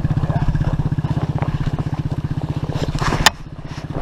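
Dirt bike engine idling with a steady, even beat. A sharp click comes a little after three seconds in, after which the engine sounds quieter.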